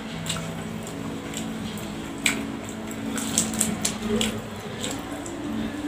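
Close-up eating sounds: chewing and mouth clicks from crispy fried catfish and rice eaten by hand, with sharp crunchy ticks, the loudest about two seconds in and a quick cluster a second later. A steady low hum of held tones runs underneath.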